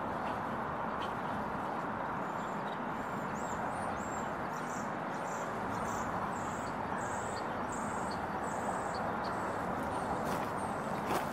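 Steady rumbling outdoor background noise, with a small bird repeating a short high chirp about twice a second through the middle of it. A few sharp clicks come near the end.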